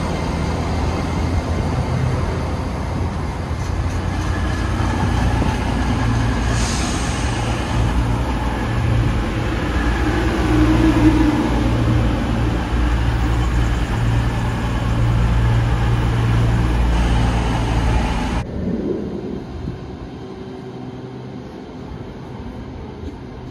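GWR Class 800 bi-mode train running on its underfloor diesel engines as it moves through the platform: a loud, steady low engine drone over wheel and track noise. About 18 seconds in the sound cuts abruptly to a quieter scene, with another Class 800 pulling in.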